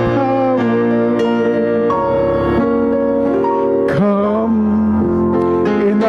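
Piano music with a voice singing long, wavering held notes.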